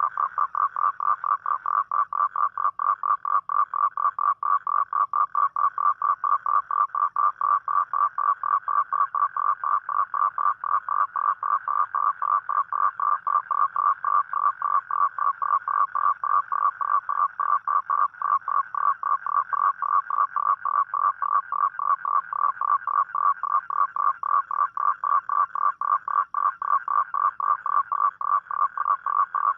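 A toad calling: one long, even trill of rapid pulses, about four to five a second, that breaks off at the end.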